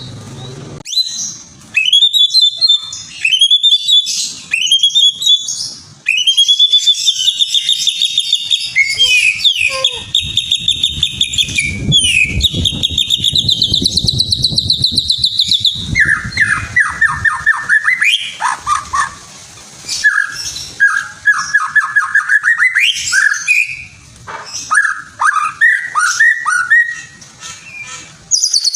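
Songbird singing a loud, varied song: fast high trills and chattering phrases, shifting about midway to lower, slower trilled phrases.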